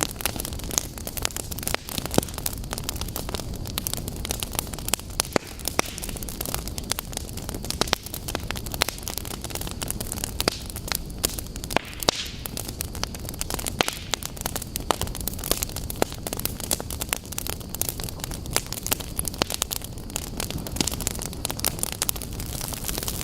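Wood fire in a fireplace crackling: frequent irregular sharp pops and snaps over a steady low rumble of flame. There is a brief brighter hiss about twelve seconds in.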